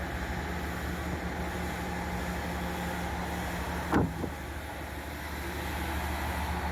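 An engine runs steadily with a low hum, and a single sharp knock comes about four seconds in.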